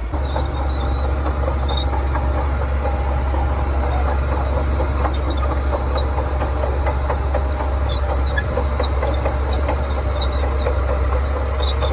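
Heavy diesel engine of a Shantui bulldozer running steadily, a deep drone with a light rattling clatter over it.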